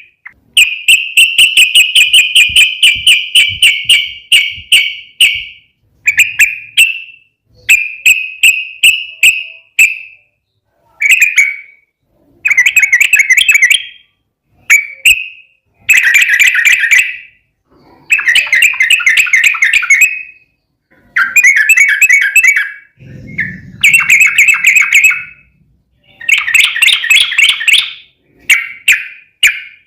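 Yellow-vented bulbul (trucukan) singing in long rapid-fire bursts of quick, repeated bubbling notes. The phrases run from under a second to about five seconds, with short pauses between them. A brief low rumble comes about two-thirds of the way through.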